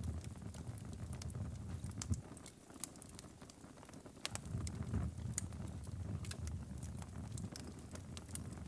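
Wood fire crackling and popping in a fireplace, with irregular sharp snaps over a low, uneven rumble. The rumble eases for a second or so in the middle, then comes back.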